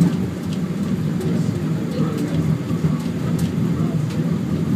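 Funicular railway car running with a steady low rumble, with a few faint clicks.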